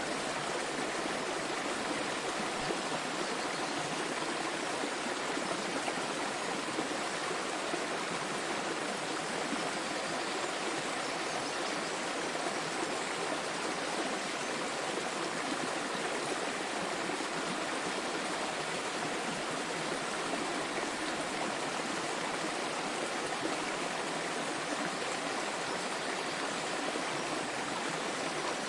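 Small waterfall splashing and flowing steadily, an even rush of water without change.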